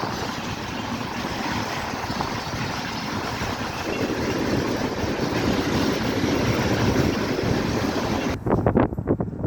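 Steady rushing rumble of a passing train, growing louder about four seconds in. Near the end wind starts buffeting the microphone in uneven gusts.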